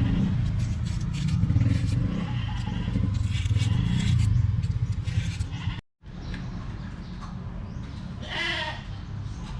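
Low rumbling with clattering handling clicks, which stops abruptly about six seconds in. Then, over a quieter steady hum, an animal bleats once near the end.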